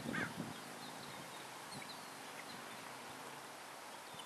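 Faint open-air background with one short bird call at the very start, then a few brief, faint high chirps from distant birds.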